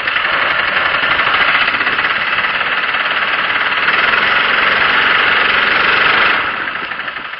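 6.5 hp Predator single-cylinder mud motor running on a jon boat, a loud steady rattling drone, which drops in level about six seconds in.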